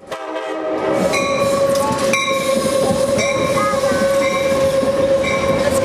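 Amtrak passenger train running: a steady tone over a rumble, with a few sharp knocks.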